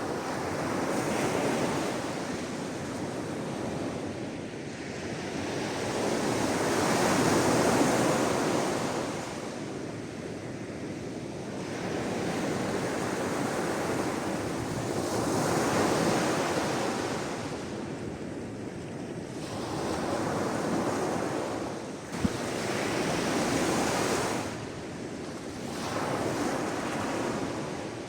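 Sea waves breaking and washing onto the shore, the surf swelling and easing off every several seconds.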